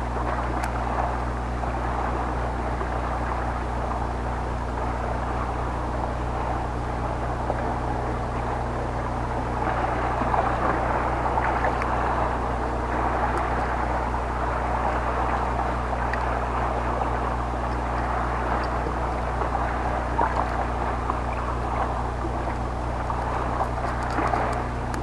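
Boat engine running steadily, a constant low drone, with a haze of water and wind noise over it.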